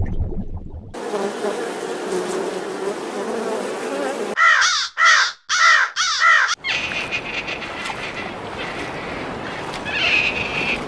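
Insect buzzing for a few seconds, then four short, harsh bird calls in a row, then buzzing again.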